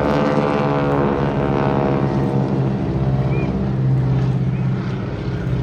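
Piston engine and propeller of the wing-walking display aircraft flying past: a loud, steady drone whose pitch slides down a little over the first couple of seconds and then holds.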